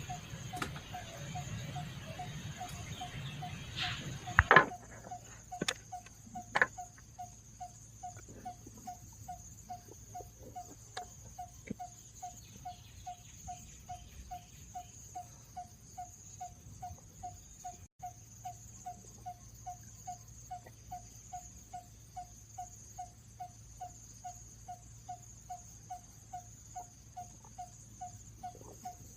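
Forest ambience: a steady high insect drone, with a short call repeating about twice a second, like a calling insect or frog. In the first few seconds a rustling noise ends in a few sharp clicks, the loudest at about four and a half seconds in.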